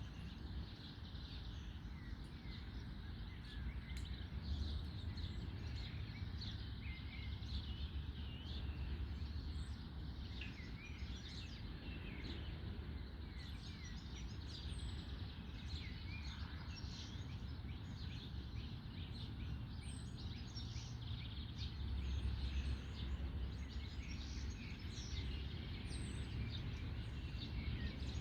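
Several birds singing in trees after rain, a steady stream of short chirps, trills and whistles, over a constant low background rumble.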